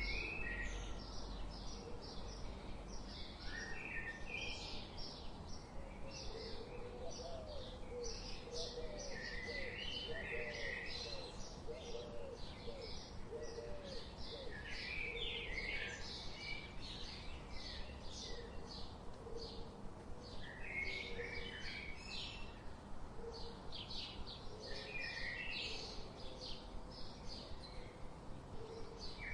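Several wild birds chirping and singing together, a dense run of short high chirps throughout, with a lower, repeated call of curved notes for a few seconds in the middle.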